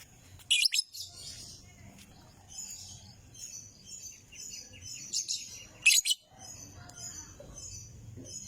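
Lovebird chattering in a fast, high twitter, broken by two brief loud shrill calls, one just after the start and one about six seconds in. It is a lure ('pancingan') song of the kind played to prompt a lovebird to sing.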